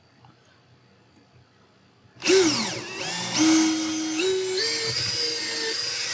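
Electric drill boring a hole through a sailboat's fiberglass hull for a new thru-hull fitting, starting suddenly about two seconds in; its motor pitch dips briefly, then climbs in steps and holds. The cut goes quickly.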